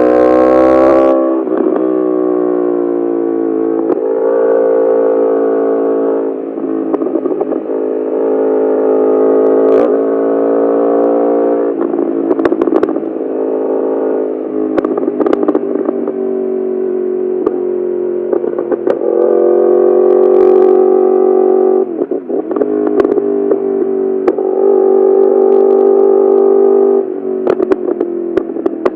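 Yamaha R1 inline-four with an Akrapovic full titanium exhaust, pulling hard in a series of rising revs with gear changes between them. Sharp crackles and pops come when the throttle closes, most of all in the middle and near the end.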